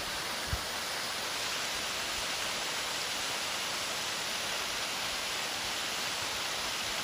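Steady rushing of a waterfall plunging over rocky ledges, an even unbroken wash of water noise. A single soft bump about half a second in.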